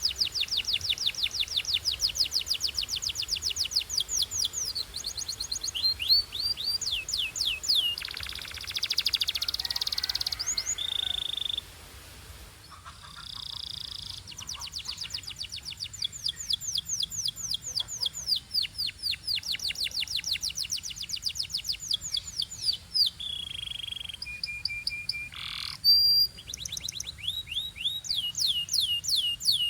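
Canary singing: rapid trills of repeated falling notes, with a buzzing roll about eight seconds in, a few short held whistles and a brief pause just after the middle.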